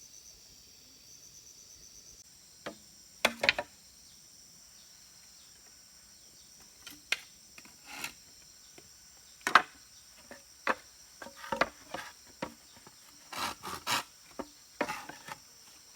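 Crickets chirping steadily, with wood being worked by hand: irregular sharp knocks and scrapes from about three seconds in, then a few short saw strokes near the end.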